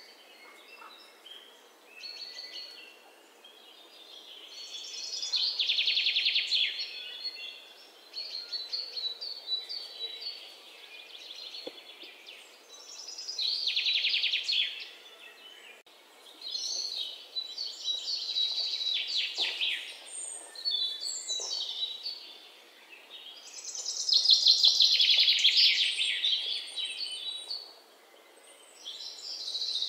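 Songbirds singing: high rapid trills that swell and fade in bursts a couple of seconds long, about six times, with quieter chirps between.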